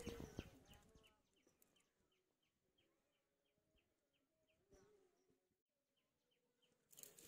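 Near silence, with a bird faintly chirping a quick series of short falling notes, about three a second, through the middle. A louder burst of noise starts near the end.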